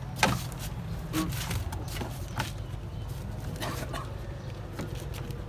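Several sharp knocks and clicks over a steady low hum.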